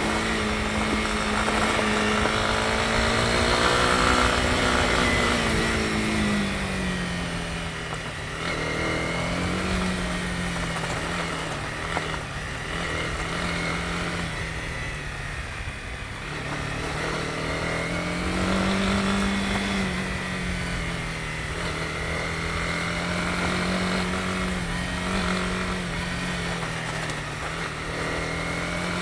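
Honda CB250R's single-cylinder engine running under way, its pitch dropping about six seconds in as the revs ease, then rising again later on, over a low rumble of road and wind noise.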